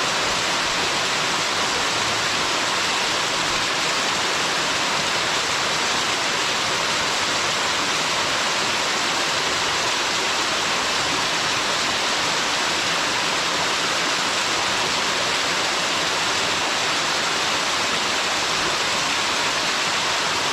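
Waterfall's water crashing down in a steady, even rush, its noise mostly in the upper range and the lows fairly weak.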